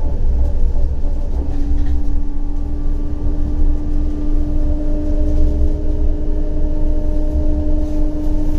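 CAF Urbos 100 tram running, heard from inside the car: a steady low rumble, with a steady humming tone coming in about one and a half seconds in and a higher one joining about halfway through.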